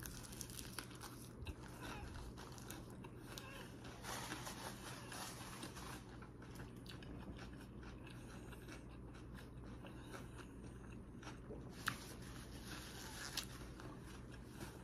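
Close-up chewing of a mouthful of leafy salad: soft crunching and wet mouth clicks, with two sharper clicks near the end.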